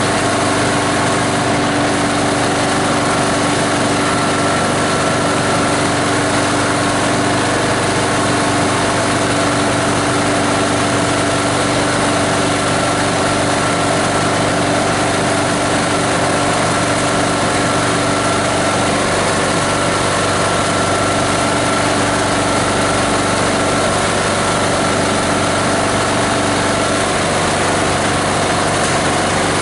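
Shredding machine driven by an 18 HP diesel engine, running steadily.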